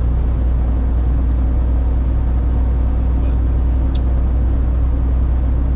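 Steady low drone of a 2000 Freightliner FLD 112 semi tractor's diesel engine and road noise, heard from inside the cab at highway speed. A faint tick sounds about four seconds in.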